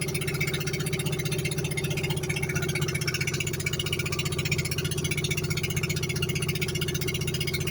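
The small engine of a banka outrigger boat running steadily, with a fast, even pulsing.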